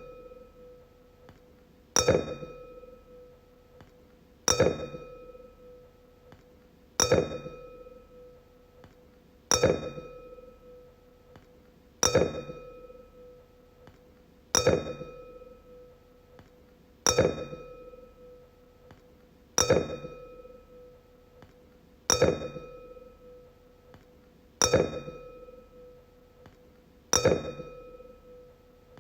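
Wine glass struck again and again, about once every two and a half seconds. Each tap gives a bright ring on one clear pitch that fades away before the next tap.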